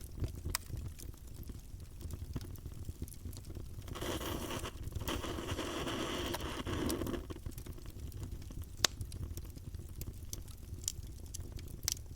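Campfire burning: a steady low rumble of flames with scattered crackles and pops, one sharp louder pop about nine seconds in. A stretch of hissing about three seconds long comes up in the middle.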